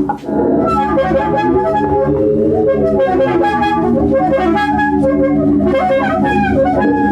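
Two saxophones with live electronics playing experimental music: several sustained tones layered over a low drone, their pitches bending and gliding, after a brief drop in loudness at the very start.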